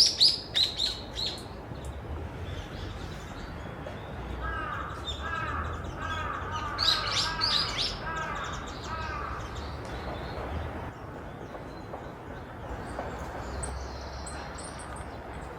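Wild birds calling: quick high chirps in the first second, then from about four seconds in a run of repeated, lower-pitched calls lasting about five seconds, with more high chirps over them in the middle and a few faint high notes near the end.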